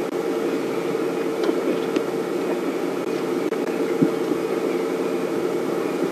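A steady mechanical hum with a hiss over it, with a short knock about four seconds in.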